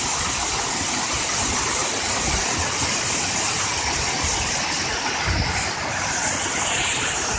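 Waterfall rushing steadily, an even hiss of falling water, with a few dull low rumbles.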